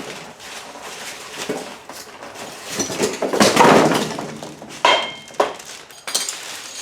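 Metal parts being handled: scattered knocks and clinks, a louder rough scraping stretch in the middle, and a sharp metallic clink with a brief ring about five seconds in.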